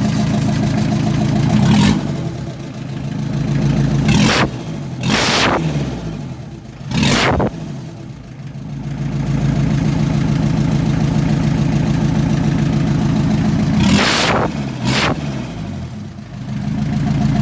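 Volkswagen 1Y 1.9-litre diesel engine idling, being run to show it works. It is revved in short throttle blips: once about two seconds in, twice around four to five seconds, once near seven seconds, and twice near the end. After each blip it drops back to a steady idle.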